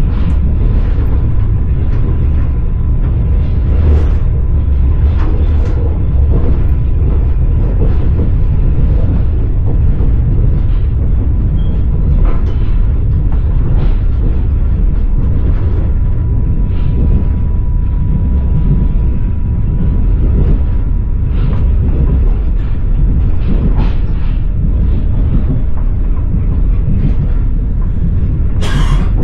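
Passenger train carriage running along the track, heard from inside the car: a steady low rumble with the clatter of the wheels knocking over rail joints, and a louder clatter just before the end. A faint steady high tone runs under it and stops about two-thirds of the way through.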